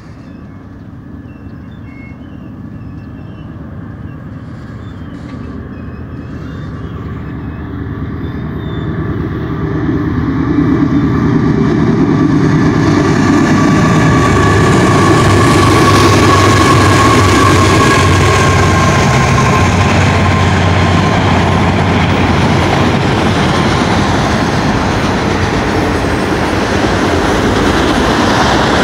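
Freight trains passing close by. A double-stack train rolls past as a Union Pacific freight approaches and grows steadily louder. Its diesel locomotives pass in the middle with a low engine hum and a faint high whine, followed by the steady rolling wheel and rail noise of autorack cars.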